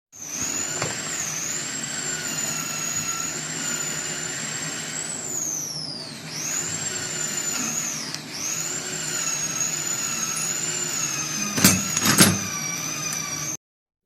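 A high-speed electric power tool running with a steady high-pitched whine. Its pitch sags twice as the tool is loaded and then climbs back, and two sharp knocks come near the end. The sound starts and cuts off abruptly.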